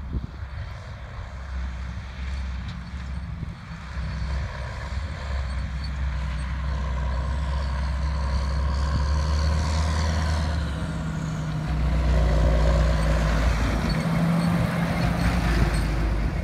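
Big diesel engine of a silage-harvest machine, a tractor or the forage harvester, running at a steady note and growing louder as it comes closer, with a step up in loudness about twelve seconds in.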